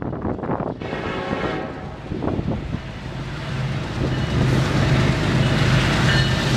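A train approaching, its noise growing louder about four seconds in, with a steady low drone from the locomotive.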